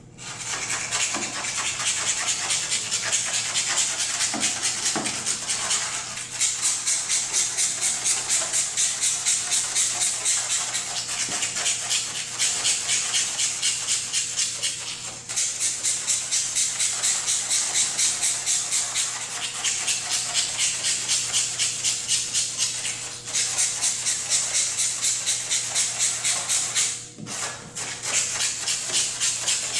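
Rapid back-and-forth hand scraping of hardened polyurethane spray-foam overspray off a car's painted surface, about four strokes a second, with brief pauses a few times.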